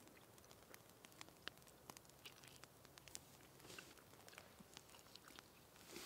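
Near silence, broken by faint, irregular soft clicks of a person chewing food.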